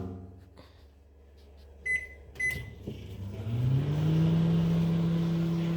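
Panasonic microwave oven: two short keypad beeps, then about a second later the oven starts. Its hum rises in pitch and settles into a steady drone as it runs.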